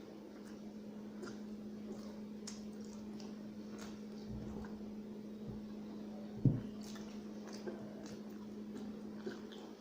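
Wet, squishy mouth sounds of someone chewing rice and curry, with scattered small smacks and clicks and one louder thump about two-thirds of the way through, over a steady low hum.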